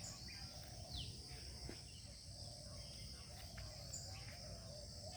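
Insects, crickets by the sound, droning steadily at a high pitch, faint, with a short falling bird call about a second in and a few other faint chirps.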